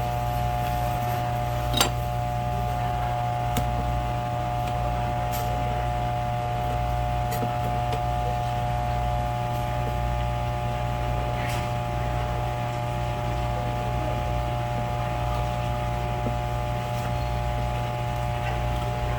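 Steady mechanical hum of running equipment, with a low pulsing drone and several fixed tones, broken by a handful of light, sharp clicks of knife and fish work on the cutting board.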